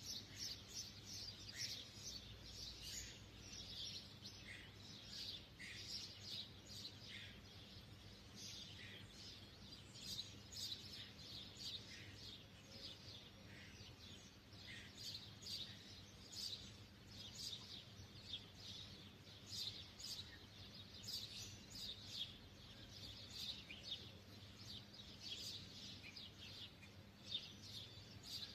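Canaries chirping: a dense, continuous stream of short, high calls from several birds, over a faint steady low hum.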